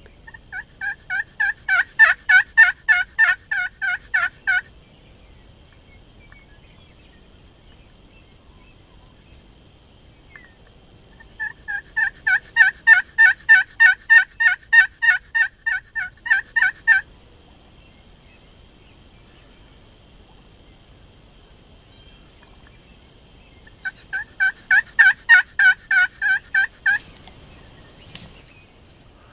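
Turkey yelping: three long runs of rapid, evenly spaced notes, about four a second, the first and last building in loudness over the first second or so.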